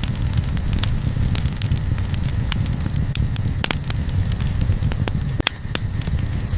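Campfire crackling with scattered sharp pops over a steady low rumble, and a cricket chirping in short, regularly repeating pulses.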